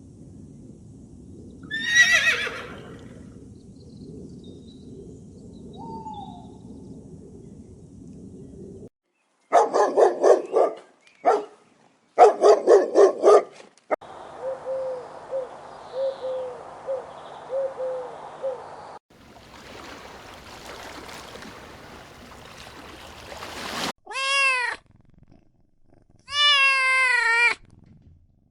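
A string of different animal calls cut one after another: a falling call, two quick runs of repeated calls, a stretch of faint chirping, then two short pitched calls that fall in pitch near the end.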